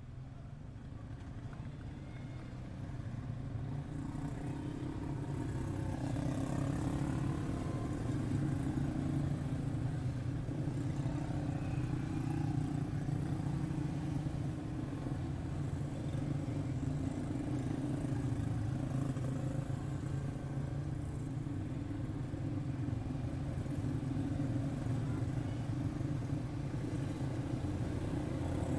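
Several quarter midget race cars' single-cylinder Briggs & Stratton Animal engines running together on the track, a steady drone that grows louder over the first few seconds and then holds.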